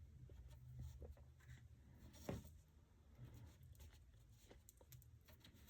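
Faint rubbing and light ticks from hands working on wooden molding trim, with one louder knock a little over two seconds in, over a low steady hum.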